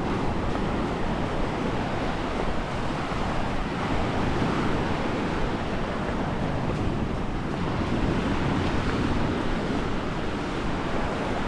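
Sea surf washing on the shore, mixed with wind buffeting the microphone in a steady low rumble.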